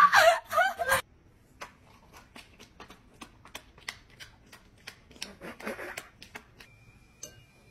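Laughing voices cut off sharply about a second in, followed by light, irregular clicks and taps from a dog, about two or three a second. A faint steady high tone comes in near the end.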